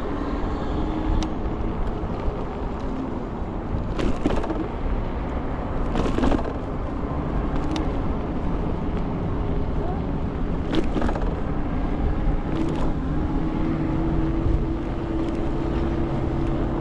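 Riding noise from an Ikingi S6 Pro electric scooter: a dense low rumble of wind on the microphone and tyres on the road, with a steady tone from the drive that grows stronger near the end, and several sharp knocks over bumps along the way.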